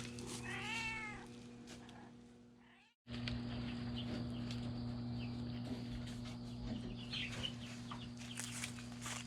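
A cat meows once, a short arching call, about half a second in. The sound then fades out and gives way to a steady low hum with faint short chirps scattered through it.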